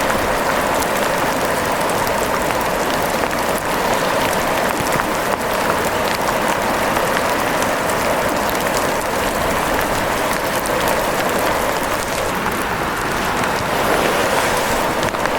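Steady rain falling, a dense patter of many drops with fine ticks from individual drops all through.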